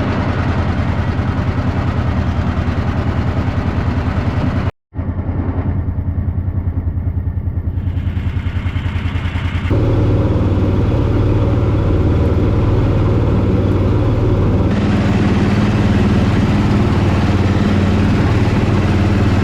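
A small engine running steadily with a fast even pulse. It comes as several clips, with a brief cut about five seconds in and sudden changes in tone near the middle and about three-quarters of the way through.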